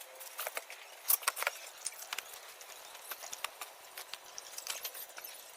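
Irregular small clicks and taps of tools and metal parts being handled as a rectifier board is fitted back into a welding machine, with a louder cluster about a second in.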